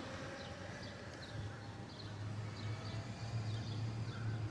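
Small birds chirping in short, high, repeated notes, over a steady low hum that comes in about a second in.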